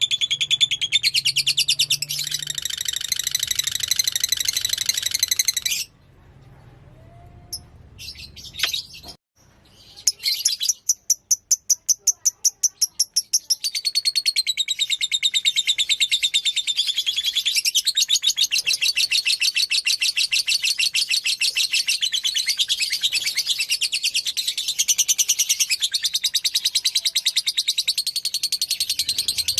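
Lovebird singing in long runs of rapid, high-pitched chirping. The song breaks off about six seconds in. A few seconds later it comes back as a run of separate chirps at about four a second, then returns to the rapid chatter.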